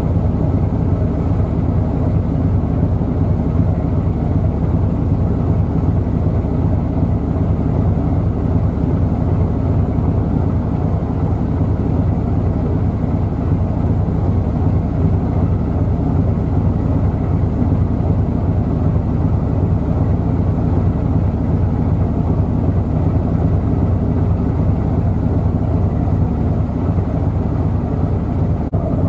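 Boat diesel engine running steadily, a constant low drone with a deep hum. It is briefly cut just before the end.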